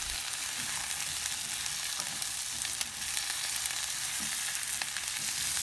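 Sweet potato slices and onion frying in oil in a stainless steel pan, sizzling steadily while a spatula stirs them, with faint scrapes and ticks against the pan.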